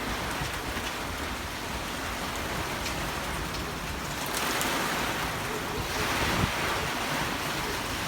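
Hurricane wind and driving rain: a steady rushing noise that swells with gusts about four seconds in and again near six seconds.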